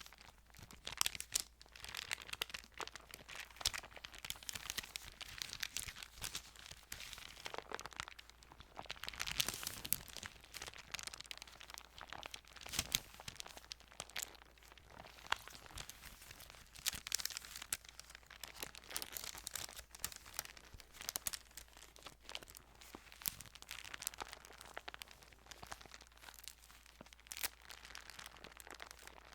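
Thin Bible pages rustling and crinkling as they are handled and turned, with many small irregular crackles.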